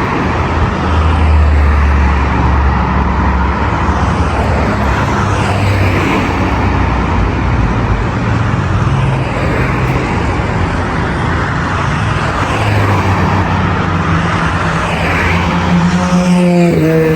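Steady road traffic on a busy boulevard: cars passing and engines running in a continuous wash of tyre and engine noise. Near the end, a pitched engine note drops in pitch and then holds steady.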